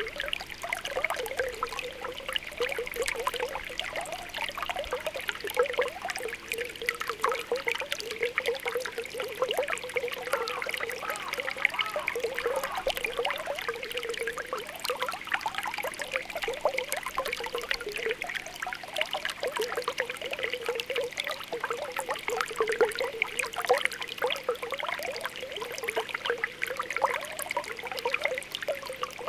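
Spring water welling up and bubbling, a steady run of small popping and gurgling plops.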